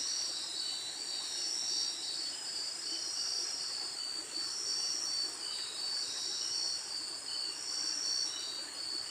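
Steady high-pitched insect chorus, a continuous shrill trilling that swells about once a second.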